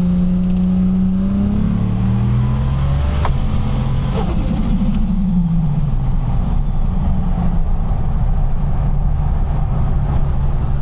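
Car engine running at low, steady revs while driving slowly, heard from on board. About four seconds in, a passing vehicle's pitch falls quickly as it goes by.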